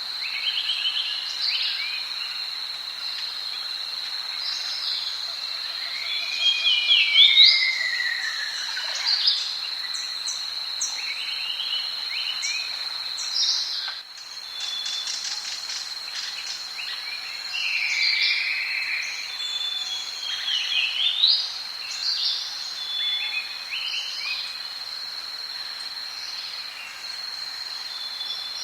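Tropical rainforest ambience: a steady high-pitched insect drone with many birds calling over it. The calls are whistles and chirps, with a long falling whistle about six seconds in.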